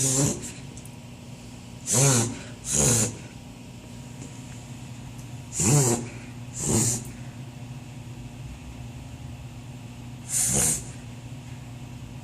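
Beagle reverse sneezing: six loud snorting inhalations pulled in through the nose, some in pairs about a second apart, with pauses of a few seconds between bouts. The snorting comes from a spasm of the soft palate, most commonly caused by irritation of the palate.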